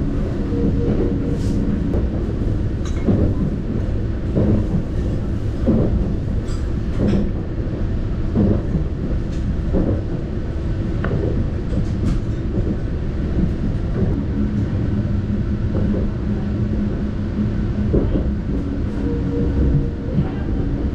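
Interior running noise of the Saphir Odoriko, an E261 series electric express train: a steady low rumble from the moving car, with irregular knocks from the wheels and a low hum that comes and goes.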